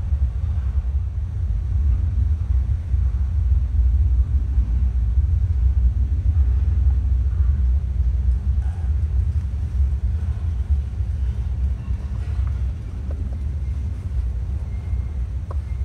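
Freight train rumbling past, a steady low rumble.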